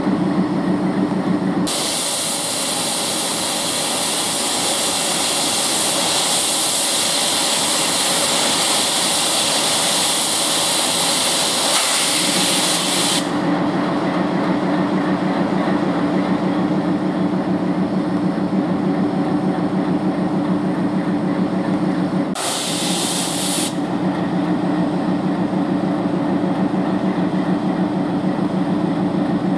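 ALCO WDM-3D diesel locomotive idling steadily, with a long, loud hiss of compressed air being released about two seconds in that lasts around eleven seconds, and a second short air release later on.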